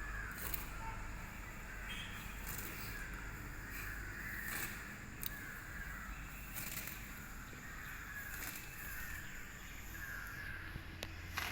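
A bird calling over and over in the outdoors, short calls roughly every second or so, with a few faint clicks.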